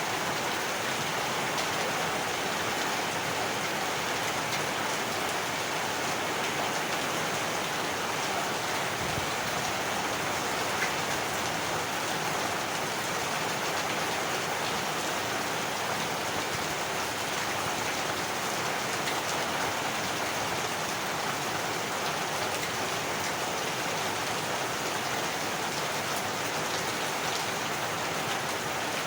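Heavy rain falling steadily, an even wash of rain on surfaces with no break.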